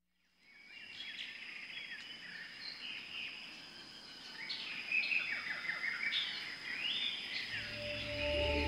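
Several birds chirping and singing over a steady high whine, fading in from silence. Soft background music with low notes comes in near the end.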